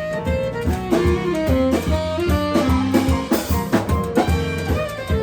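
Blues band playing live, an instrumental passage: drums and bass keeping a steady beat under a melodic lead line of held notes.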